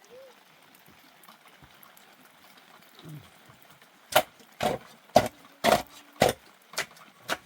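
A run of sharp knocks, about two a second, starting about halfway through, as if something is being struck repeatedly.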